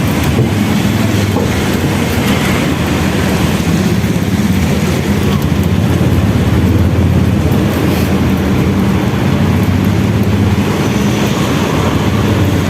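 Steady low rumble of a running vehicle, with an even hiss of noise above it.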